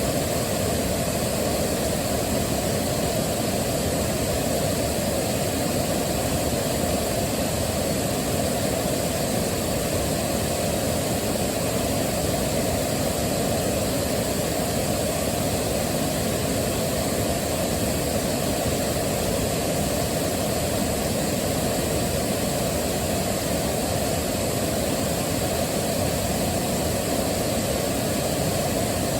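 Waterfall: a steady, unbroken rush of falling water, deepest and strongest in its low rumble.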